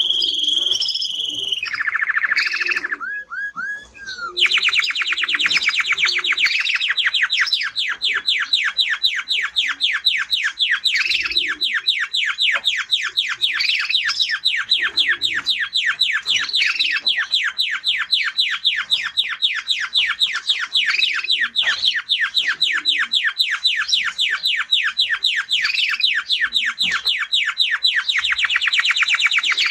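Male canary singing: a few short, varied phrases, a held whistle, then a buzzy trill and a run of rising notes. About four seconds in, it breaks into one long, very fast, unbroken trill.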